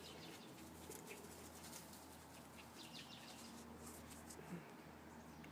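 Near silence with faint bird chirps: a few short clusters of high calls.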